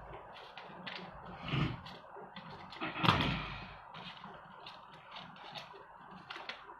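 Paper and craft tools being handled on a table: a run of small clicks and rustles, with two louder knocks about one and a half and three seconds in, the second the loudest.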